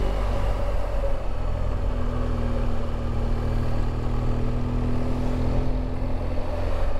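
BMW R1200GS LC's liquid-cooled boxer twin engine running steadily under way, with wind and road noise over it.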